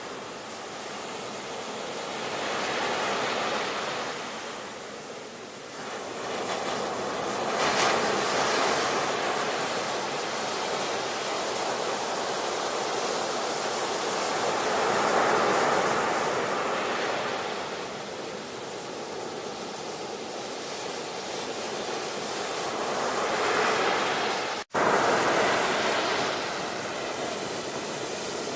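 Ocean surf: waves breaking and washing in slow surges every several seconds over a steady hiss of water. Near the end the sound drops out for a split second, as at an edit splice.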